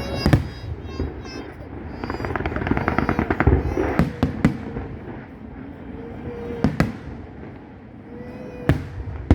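Aerial fireworks going off: a string of sharp bangs from bursting shells, with a dense run of crackling between them, over a steady rumble.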